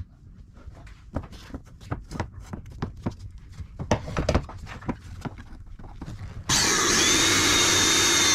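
Light knocks and handling clicks, then about six and a half seconds in a handheld power tool, such as a drill, starts suddenly and runs at a steady high whine.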